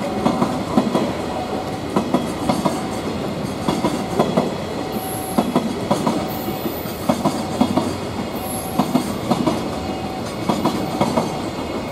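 Freight train of container flat wagons rolling past, its wheels clicking in steady clickety-clack groups over the rail joints above a continuous rumble. Brief high-pitched wheel squeals come in about five and eight seconds in.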